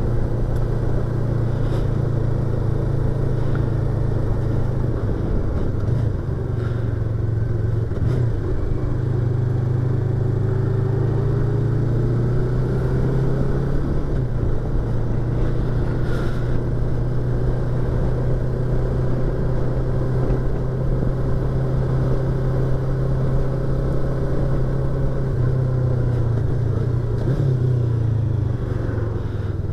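Yamaha YZF-R25's parallel-twin engine running under way, heard from inside the rider's helmet, its note steady for long stretches and changing pitch a few times as the bike shifts and changes speed.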